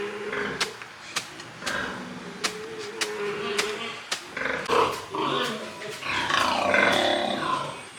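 Pigs grunting and squealing, loudest about two-thirds of the way in, among repeated sharp clicks and knocks.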